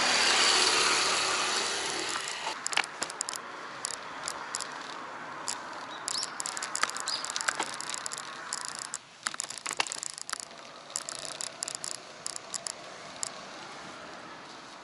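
Bicycle being ridden, with irregular sharp clicks and rattles from the bike. A rush of noise swells in the first second or two and then fades.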